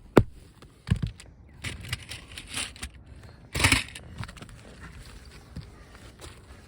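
Asphalt roof shingle being worked loose by hand and tools: two sharp clicks in the first second, then crunching and scraping of grit, with a louder scrape about three and a half seconds in. The crunch comes from wind-driven debris trapped under the shingle.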